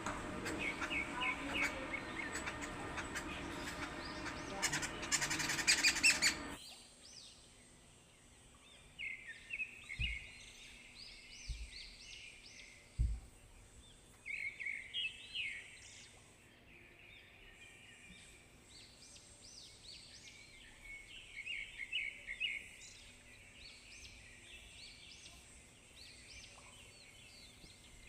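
Small birds chirping in repeated short runs of quick notes. For the first six seconds the chirps sit over a dense, noisy background that cuts off abruptly, after which the chirping continues alone with a few soft low thumps.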